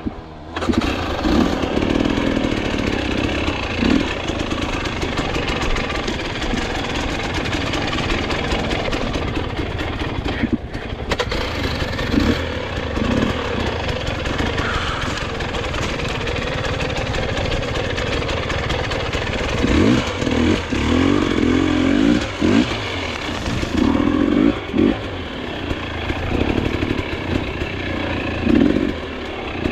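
Dirt bike engine running continuously under varying throttle while riding, with several short blips of revs in the second half.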